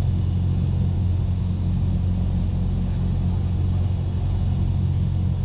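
Cessna 172's piston engine and propeller droning steadily, heard inside the cockpit.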